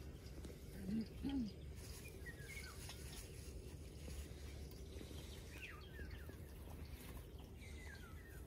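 Quiet open-air ambience with faint bird calls: a few short descending chirps every couple of seconds over a low steady rumble. Two brief low sounds stand out about a second in.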